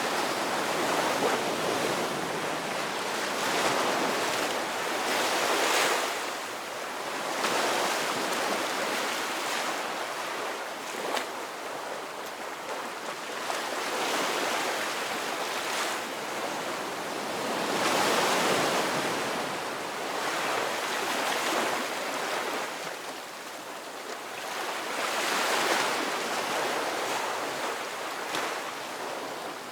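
Ocean waves breaking and washing onto shore, the surf swelling and easing every few seconds.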